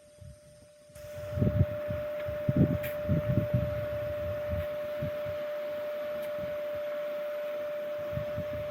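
Wind gusting on the microphone in irregular low rumbles, with a steady hiss that comes in about a second in. A single steady mid-pitched tone hums throughout.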